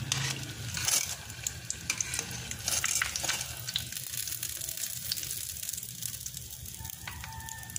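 Breaded tuna pie frying in hot oil in a stainless steel pan, turned and lifted with tongs: steady sizzling with frequent crackling pops.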